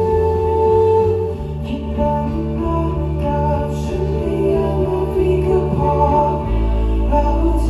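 Live band playing an instrumental passage of a song: sustained chords over long held bass notes, the bass changing note about a second and a half in and again near the end.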